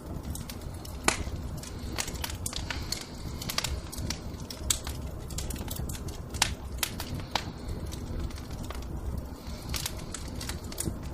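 Wood fire crackling: irregular sharp pops and snaps over a low steady rumble, one of the loudest pops about a second in.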